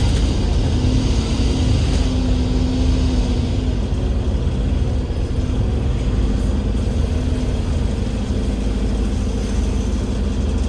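Cummins L9E six-cylinder diesel engine of an Alexander Dennis Enviro500 MMC double-decker bus with a ZF Ecolife automatic gearbox, running steadily under way. A higher hiss over the engine dies away about four seconds in.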